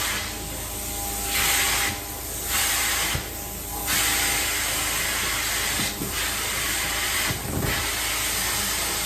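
Carpet-cleaning extraction wand hissing as it sprays and sucks up water, over the steady drone of the extraction machine. The hiss cuts out and comes back three times in the first four seconds, then runs on with two brief breaks.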